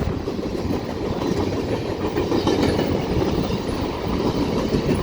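Freight train rolling past close by: a steady, loud rumble of wheels on rails with faint clicking from the rail joints.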